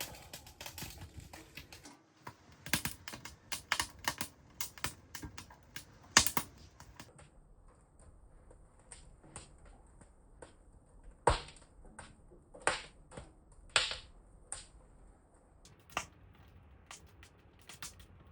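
Wood fire burning in a tent wood stove, crackling with irregular sharp pops and snaps.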